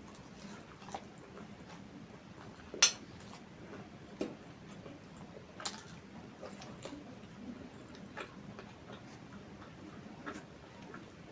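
Eating sounds: a person chewing and handling food, giving scattered sharp clicks and smacks a few seconds apart, the loudest about three seconds in.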